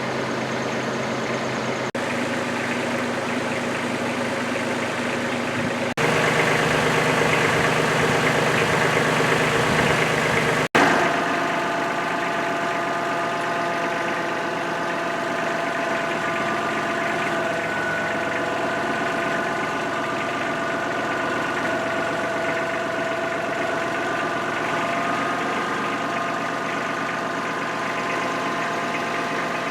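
A motor or engine running steadily, broken by abrupt changes about 2, 6 and 11 seconds in. From about 11 seconds on it holds a steady whine at a fixed pitch.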